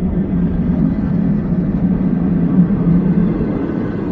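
Slow passenger train hauled by a Shaoshan electric locomotive rolling into the station: a loud, steady rumble of wheels and carriages on the rails.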